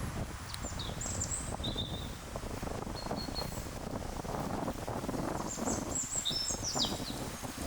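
Small birds giving short high chirps and calls, a quick cluster of them near the end, over a constant low rustling rumble of outdoor noise.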